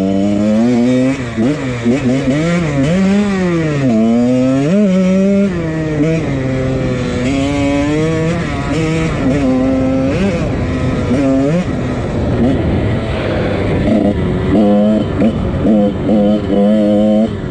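1999 Husqvarna CR125 two-stroke dirt bike engine, fitted with a Pro Circuit exhaust, revving up and down again and again while being ridden. The pitch climbs and drops repeatedly, with choppy throttle blips near the end.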